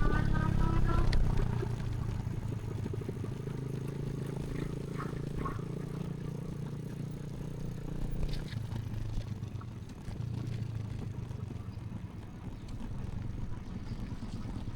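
Steady low rumble of an electric recumbent bike under way on a paved path, louder for the first couple of seconds, with a few light clicks and rattles.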